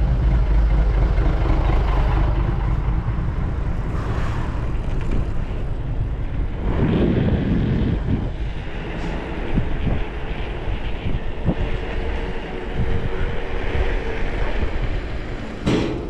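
Wind buffeting the camera microphone as a mountain bike rides a rough trail, with the bike clattering over bumps in short knocks. A short high squeak near the end.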